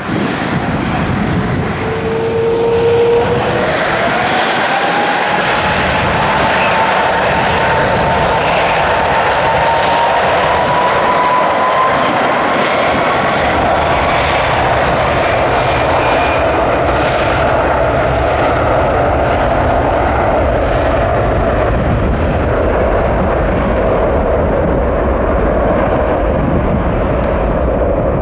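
Airbus A330-300's Rolls-Royce Trent 700 jet engines running loud, with a steady jet roar and low rumble. A whine climbs in pitch over the first dozen seconds, then fades into the roar.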